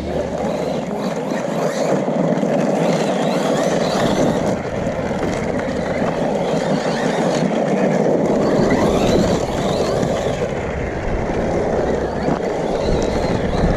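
Losi Baja Rey 1/10-scale brushless RC truck driving on dirt: tyre and gravel noise with the electric motor's whine rising and falling as the throttle changes.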